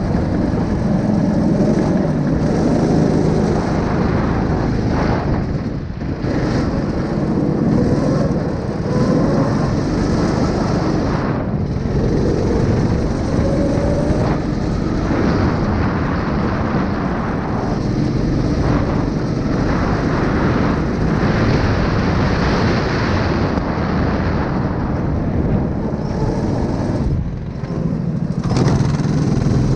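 A small 9 hp engine running steadily and loudly, with a few brief dips in level.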